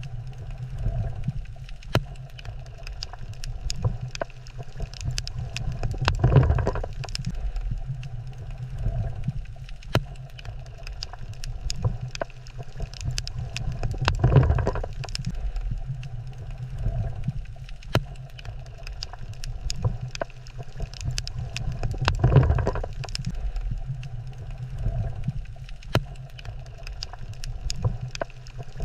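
Underwater ambience on a coral reef: a steady low rumble of moving water with many sharp clicks scattered through it, and a broad swell of sound about every eight seconds.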